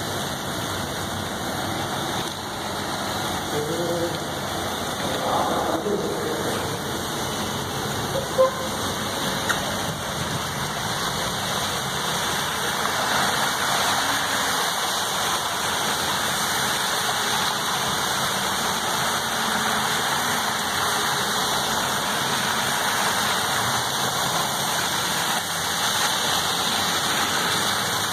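Rain and car tyres splashing through floodwater on a cobbled street, a steady rushing that grows louder about twelve seconds in as a car drives through the water. A single sharp knock about eight seconds in.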